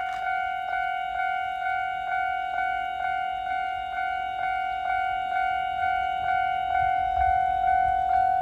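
Railway level-crossing warning bell ringing steadily, a bright tone struck about twice a second. A low rumble builds near the end.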